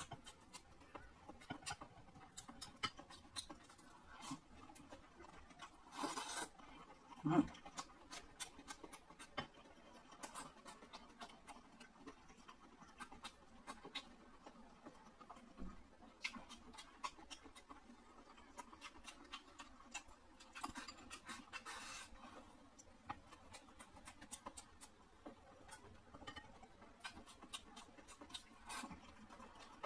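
Close-miked eating sounds of a person chewing garlic pork elbow and rice: irregular soft, wet mouth clicks and smacks. A few short, louder noisy bursts come about six seconds in and again around twenty-one seconds.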